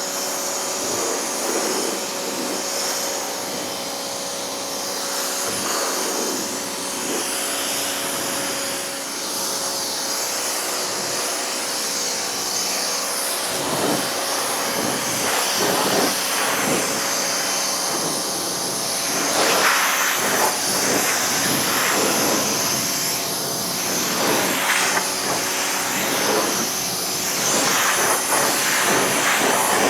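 Pressure washer spraying in the final rinse of a truck's bodywork: a steady hiss of water with the washer's motor hum underneath, the spray surging as the jet sweeps over the surfaces, more often in the second half.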